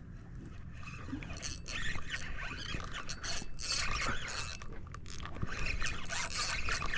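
A flock of seagulls calling, a dense, harsh, overlapping clamour that grows louder about one and a half seconds in.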